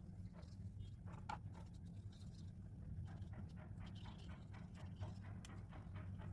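Faint, irregular light taps and scratches of a watercolour brush working on paper, over a steady low hum.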